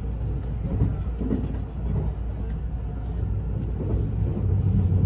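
Running noise heard inside the cabin of a moving limited express electric train: a steady low rumble of wheels on the rails.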